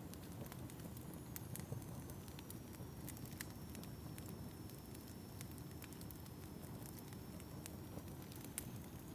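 Wood fire crackling in a fireplace: irregular sharp pops and snaps over the steady low rumble of the flames.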